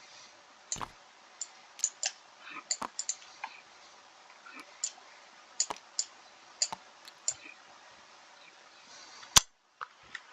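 Irregular sharp clicks and taps as game units are placed on a strategy-game board, about fifteen in all with one louder click near the end.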